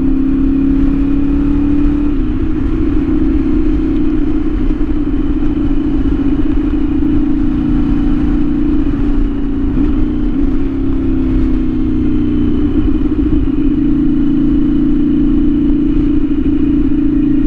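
CFMOTO 450SS parallel-twin engine with an aftermarket slip-on exhaust running at a steady cruising speed. Its pitch holds mostly level, stepping up slightly about two seconds in and wavering a little midway, over a low rushing noise.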